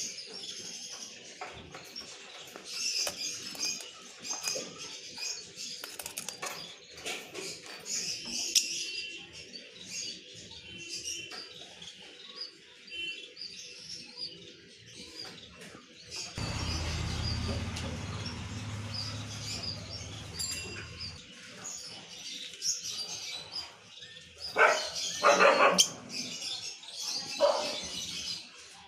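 A flock of lovebirds chirping and chattering, many rapid high calls overlapping. A low steady hum joins in for several seconds in the middle, and a few louder, harsher calls stand out a few seconds before the end.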